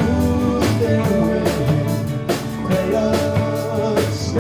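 Live rock band playing a song: a drum kit keeps a steady beat under electric guitar and bass, between sung lines.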